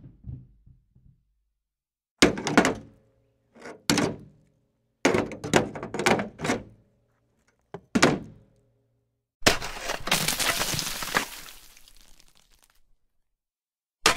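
A string of heavy thuds and knocks, single and in quick clusters, each with a short low ring after it. About nine seconds in comes one crash whose rattling, hissy tail fades away over about three seconds.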